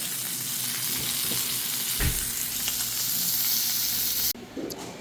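A steady, bright hiss with a brief low thump about two seconds in, cutting off abruptly a little after four seconds.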